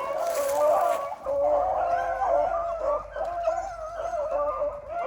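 A pack of rabbit hounds baying on a rabbit's trail, several dogs giving voice at once in overlapping, wavering howls.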